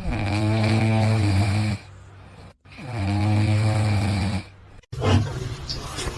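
Snoring: two long, low snores about a second apart, each lasting nearly two seconds, followed near the end by a few light clicks.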